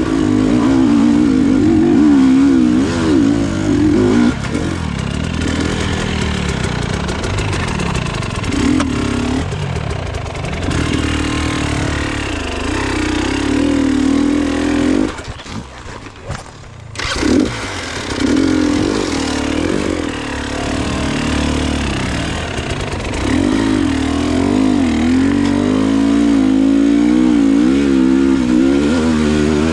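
Enduro motorcycle engine running under throttle on a trail, its revs rising and falling. About halfway through the engine note falls away for about two seconds, then picks up again.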